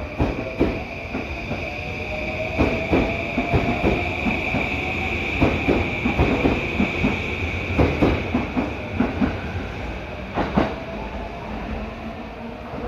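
Yokosuka Line electric train running over rail joints and points: an irregular clatter of wheel clicks and knocks, over a steady high-pitched squeal and a faint, slowly rising tone.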